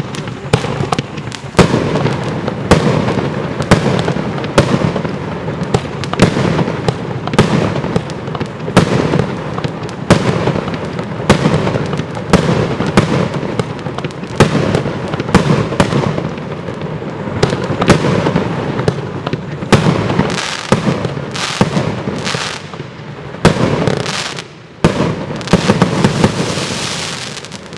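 A 25-shot 'Bloody Chameleon' consumer fireworks cake firing its shots in quick succession, a steady run of sharp bangs with a continuous rush of noise between them.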